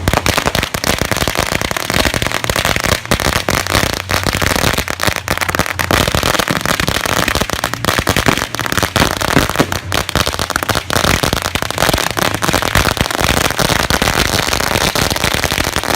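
A long string of firecrackers going off: rapid, unbroken crackling and popping, many bangs a second.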